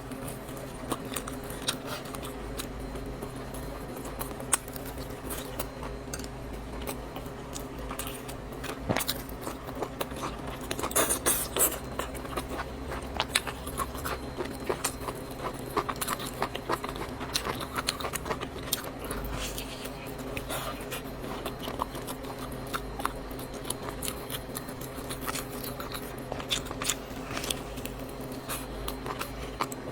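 Close-miked eating sounds: chewing, with many small clicks and scrapes of utensils and a busier stretch about eleven seconds in, over a steady low hum.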